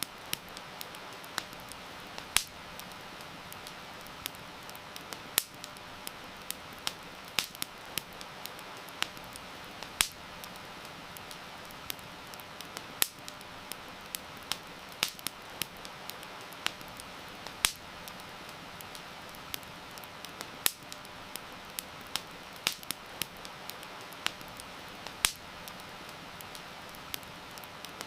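Wood fire crackling, with irregular sharp pops several times a second, over a steady hiss of rain.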